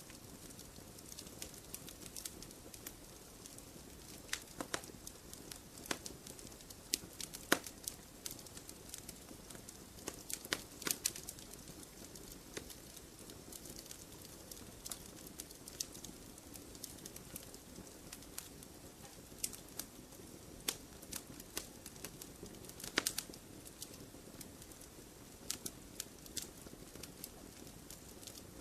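Fireplace fire crackling: irregular sharp pops and snaps over a soft steady hiss, with a few louder pops scattered through.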